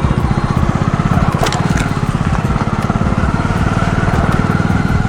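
Motorcycle engine running steadily with a fast, even low firing pulse, with one short click about a second and a half in.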